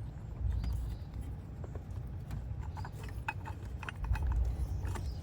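A few faint, scattered clicks of hand tools and bolts against metal, over a low steady rumble that swells twice.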